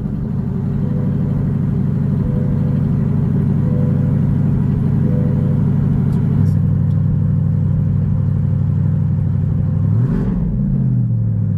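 C8 Corvette Stingray's 6.2-litre LT2 V8 idling through a Borla Atak exhaust just after being started. The idle note steps down about halfway through, and the pitch rises and falls briefly near the end.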